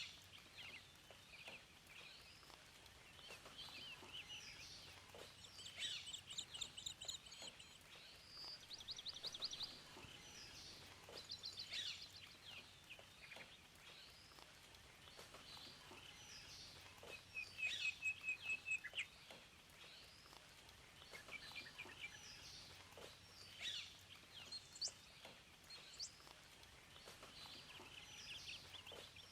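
Several songbirds singing at once, with overlapping chirps, whistled notes and fast trills, over a faint steady hiss.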